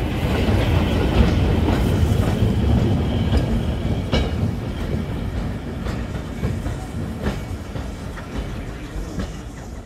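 Train rolling along the track with a clickety-clack of wheels over rail joints, fading in and then gradually fading out.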